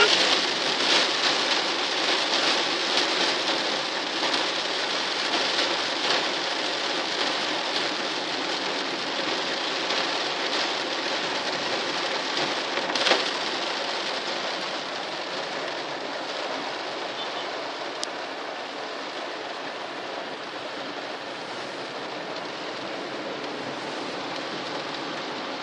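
Rain falling and pattering on surfaces, a steady hiss of drops that eases off gradually toward the end. A single sharp knock sounds about halfway through.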